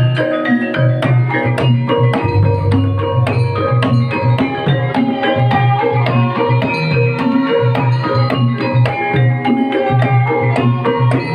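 Banyumasan gamelan music accompanying an ebeg dance, with hand drums and struck mallet instruments playing a steady, fast rhythmic figure.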